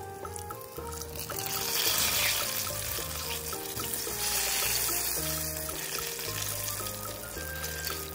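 Breaded eggplant deep-frying in hot oil, sizzling, the sizzle swelling from about two seconds in as hot oil is spooned over it, with background music playing throughout.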